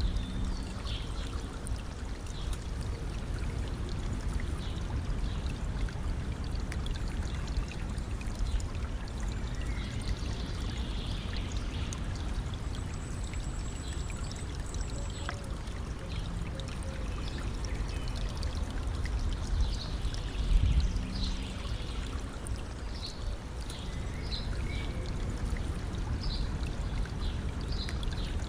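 A river stream running and trickling steadily, with birds chirping on and off above the water's rush. There is a brief louder surge of water about two-thirds of the way through.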